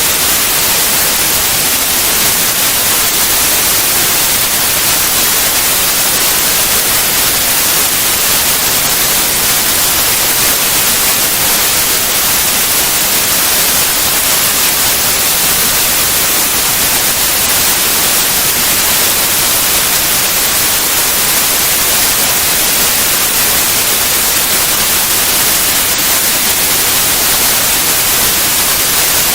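White noise: a steady, even hiss that does not change, strongest in the high frequencies.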